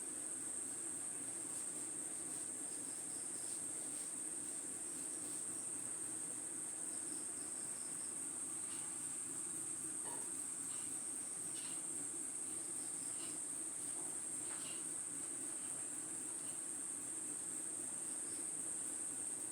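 A steady, high-pitched insect chorus trilling without a break, with a steady low hum beneath it and a few faint short chirps scattered through.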